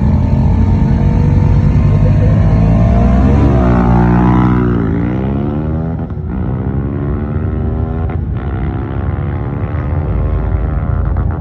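Motorcycle engine under way. Its pitch drops about four seconds in, then climbs again in steps, broken twice by short gaps for upshifts as the bike accelerates through the gears.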